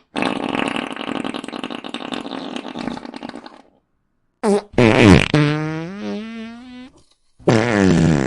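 Fart sound effects in succession: a long, raspy, fluttering one of about three and a half seconds that fades out, then a short blip, a long pitched one that falls in pitch with a wobble, and another pitched, falling one near the end.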